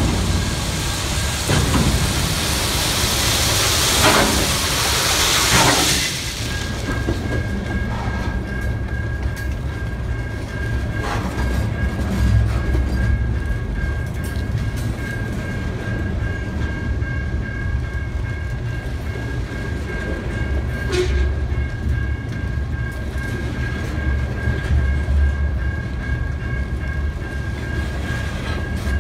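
Freight train of loaded CSX coal cars rolling past at close range: a steady low rumble of wheels on rail with occasional clicks. A loud hiss runs for the first six seconds or so, then drops away, leaving a faint steady high whine over the rumble.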